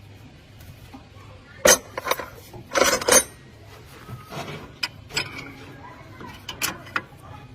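Metal tools and parts clinking and clattering as they are handled, with a sharp knock a couple of seconds in and a louder clatter about three seconds in, then lighter scattered clicks.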